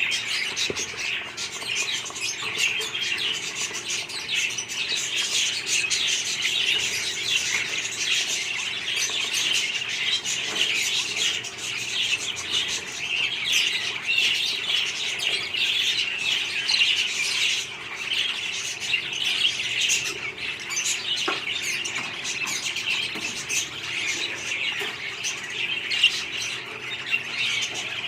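A flock of budgerigars chirping and chattering without pause, many birds calling over one another.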